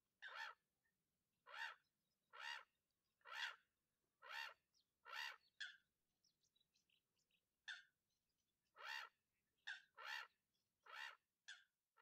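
A bird calling over and over, about one call a second, with a short pause midway and a few shorter calls mixed in. Fainter chirps come during the pause.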